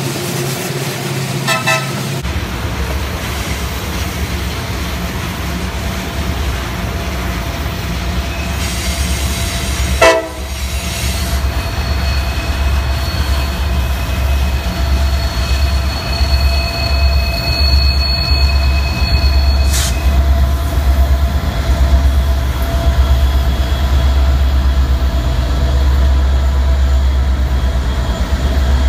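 Freight train rolling past: tank cars, then the trailing Norfolk Southern diesel locomotives, whose engines give a steady low drone that grows louder as they come close near the end. There is a sudden short loud burst about ten seconds in. From about twelve to twenty seconds there is a thin high wheel squeal, which stops abruptly.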